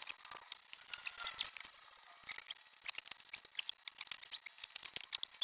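Many light, irregular metallic clicks and taps as the Suzuki GS750 engine is shifted and tilted inside the motorcycle frame.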